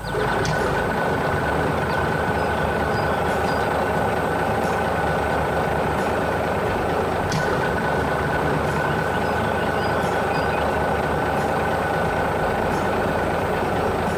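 A steady mechanical running noise, like a heavy vehicle's engine, that starts abruptly and holds even throughout, with a constant high-pitched tone over it.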